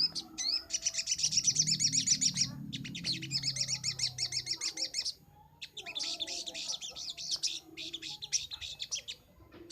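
Crimson sunbird (sogok ontong) singing: four rapid, high-pitched twittering trills of fast-repeated chirped notes, each lasting one to two seconds with short pauses between.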